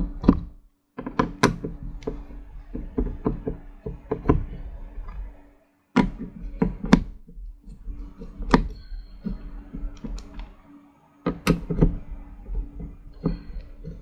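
Irregular clicks, taps and knocks of a screwdriver working the CPU cooler's mounting screws into the back of a motherboard, with the board and tool being handled.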